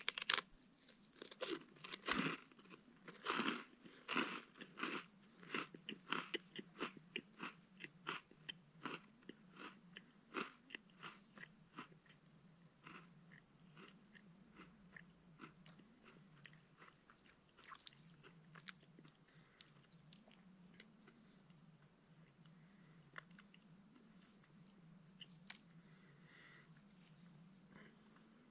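Crisp crunching of a freeze-dried ice cream sandwich being bitten into and chewed close to the microphone. The crunches come thick and fast for about the first twelve seconds, then thin out to the odd crunch as the chewing slows.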